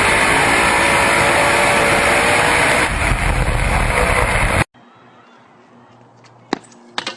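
Loud, steady vehicle noise with a rushing hiss, which cuts off abruptly about two-thirds of the way through. It gives way to a quiet background with two sharp clicks near the end.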